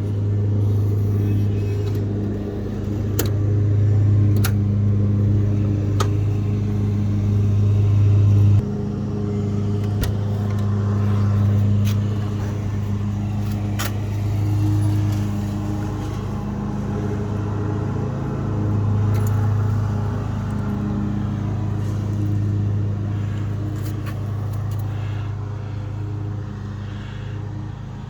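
1992 Buick Riviera's 3.8-litre V6 idling steadily, with a few sharp clicks in the first half. About eight seconds in, the sound drops a step in level and then carries on evenly.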